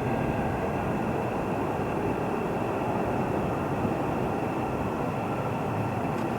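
Train running through a station: steady running noise, with a faint steady whine above it.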